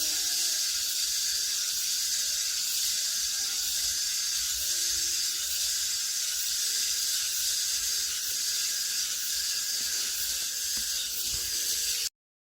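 Cicadas buzzing in a steady, high, hissing chorus that cuts off suddenly near the end.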